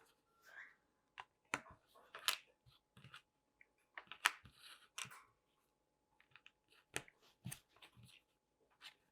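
Faint, scattered clicks of small plastic LEGO pieces being handled and pressed together, a dozen or so sharp ticks spread irregularly, the loudest a little past four seconds in.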